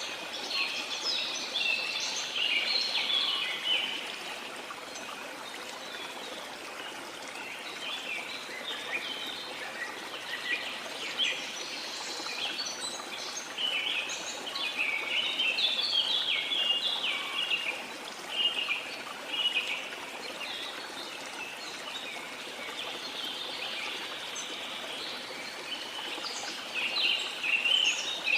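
Many small birds chirping and calling in quick, overlapping notes, busiest in spells, over the steady rush of a flowing river.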